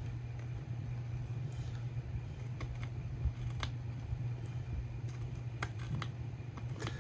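Steady low background hum with a few faint, scattered clicks and taps of small plastic storage containers being handled.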